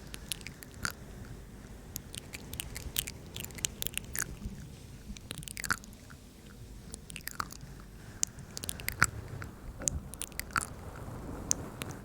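Close-miked ASMR mouth sounds: irregular wet clicks and smacks, several a second.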